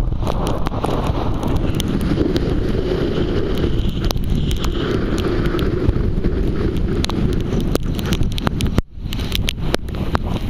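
Strong wind buffeting the microphone, a heavy rumbling roar with frequent crackling pops; it cuts out for a moment about nine seconds in.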